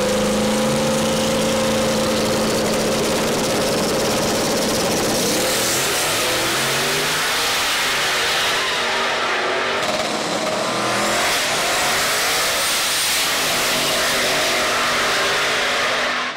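Twin-turbo LSX V8 race truck engine held at steady revs for a few seconds, then run hard, its pitch climbing and falling several times.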